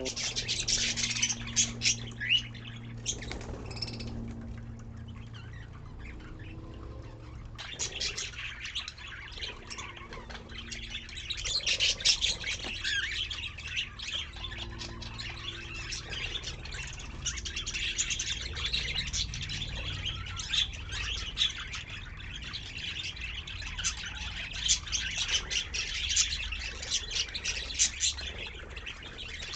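Budgerigars chattering and chirping continuously with dense, overlapping warbles and short squawks, over a steady low hum.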